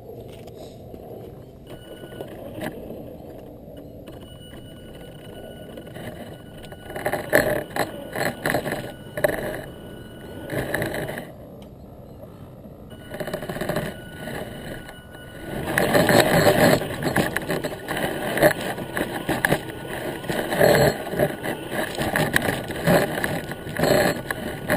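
Electric Tamiya TA02T radio-controlled truck driving over rough backyard ground, heard from a camera mounted on it: a low steady hum at first, then from about seven seconds in, repeated bursts of rattling and scraping from the wheels and chassis, with a faint steady whine.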